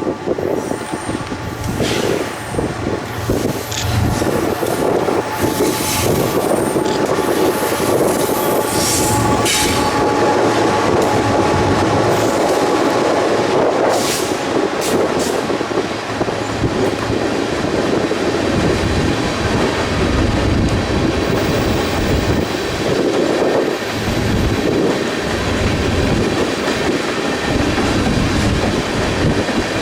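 Freight train cars rolling past, the wheels clattering over the rail joints, with brief high wheel squeals in the first half.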